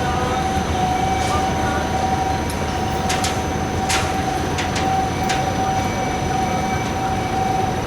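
Heavy machinery running steadily with a constant high whine, with a few sharp metallic clanks in the middle.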